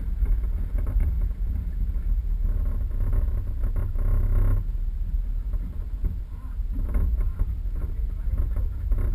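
Low, uneven rumble of a 4x4 vehicle driving off-road.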